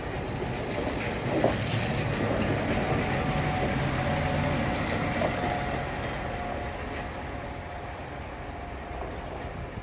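PS-00/B catenary maintenance train running into the station on rail, its rumble swelling and then fading, with a thin steady squeal through the middle.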